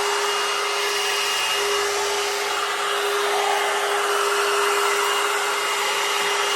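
Hair dryer running steadily at one constant pitch, blowing air while drying hair.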